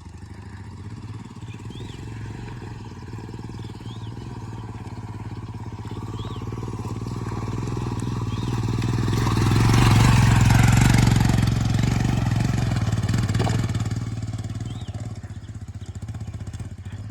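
Motorcycle engine running steadily, growing louder to its peak about ten seconds in and then fading away.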